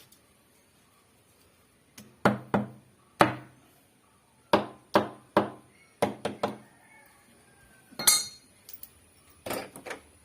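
Repeated sharp taps or knocks on a hard object, about a dozen strikes in irregular groups, each ringing briefly. A clinking rattle follows about eight seconds in, then a few lighter knocks near the end.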